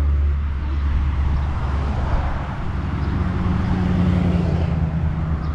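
Road traffic: a motor vehicle passing, its engine hum swelling and holding in the second half, over a steady low rumble.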